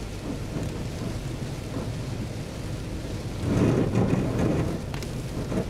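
Heavy rain beating on a car's windshield and body over a low steady rumble from the moving car. About three and a half seconds in, a louder rush lasting about a second as a sheet of wind-driven spray hits the glass.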